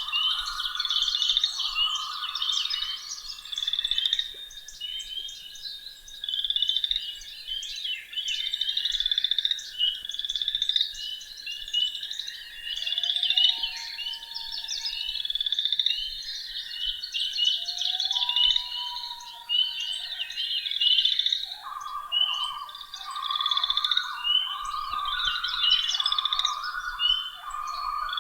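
A spring frog chorus: many frogs calling together in dense, overlapping trills that never let up. A lower-pitched run of repeated calls joins in over the first few seconds and again near the end. Twice in the middle comes a short rising note.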